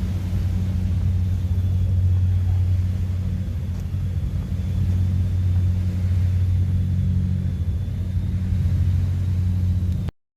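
A steady low rumble that cuts off abruptly near the end.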